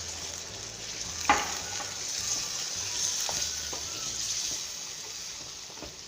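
Chicken curry sizzling in a pan as it is stirred with a spoon, just after water has gone in. A sharp clink of the spoon against the pan comes about a second in, with a few fainter knocks later.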